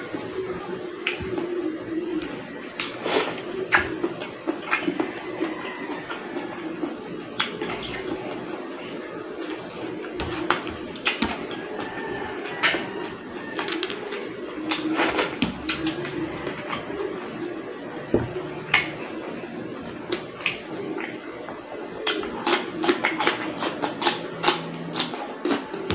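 Close-up eating sounds: chewing and lip-smacking with many sharp clicks, and a run of crisp crunches near the end as raw cucumber is bitten and chewed. A steady low hum sits underneath.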